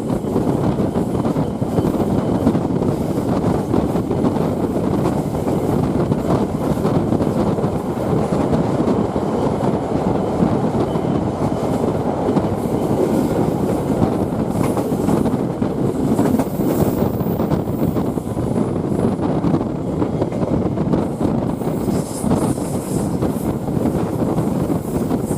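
Passenger train running along the track, heard from on board: a steady rumble of wheels on rails.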